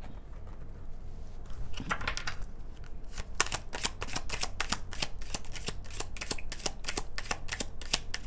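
A deck of tarot/oracle cards being shuffled by hand: a fast run of crisp card clicks, about five a second, starting about two seconds in.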